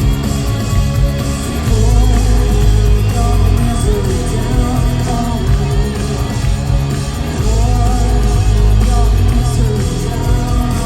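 Live alternative rock band playing loudly, with distorted electric guitars, bass and drums and a woman singing lead.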